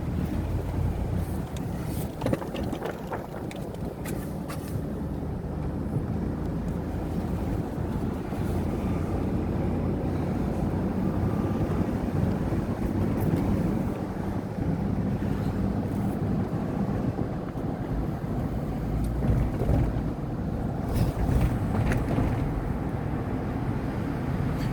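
Truck driving slowly: a steady low engine and road rumble, with a few sharp clicks or rattles.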